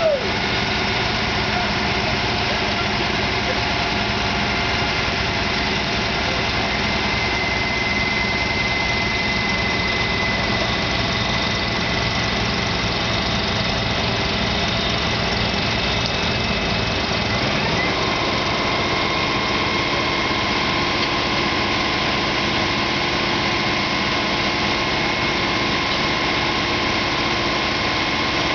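Tow truck engine running steadily at idle, then speeding up about two-thirds of the way through and holding at the higher speed.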